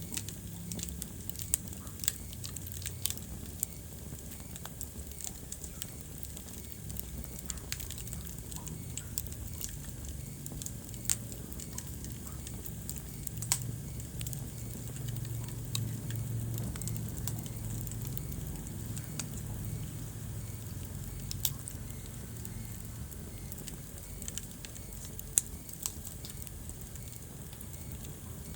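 Wood fire burning in a fireplace: irregular crackles and sharp pops over a low, steady rumble of the flames, with a handful of louder pops standing out.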